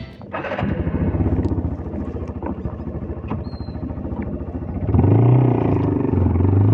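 CFMOTO Papio 125's single-cylinder engine running at a pulsing idle, then revving up about five seconds in and staying louder.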